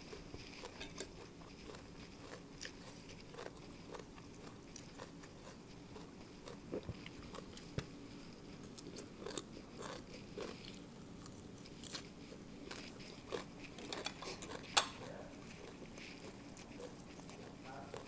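Chewing and crunching of papaya salad and raw vegetables: a run of crisp bites and wet mouth clicks. A single sharp, louder click comes about 15 seconds in.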